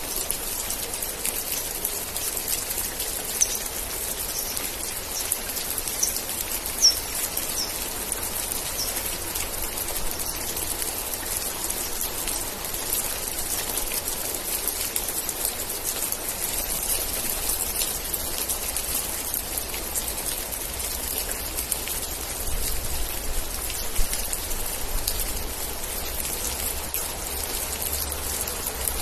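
Steady rain falling, an even hiss of drops, with a few sharper, louder drop hits now and then and some faint short high chirps a few seconds in.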